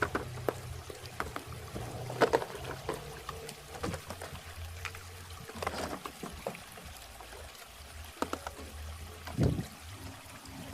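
Water trickling, with scattered sharp clicks and knocks (the loudest about two seconds in and near the end) over a low steady hum.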